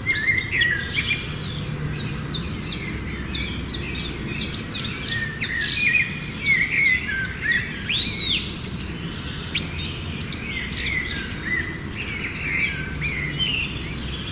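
Many small birds chirping and calling over one another: a dense chorus of quick high chirps and short whistles, some sweeping up or down, over a steady low background noise.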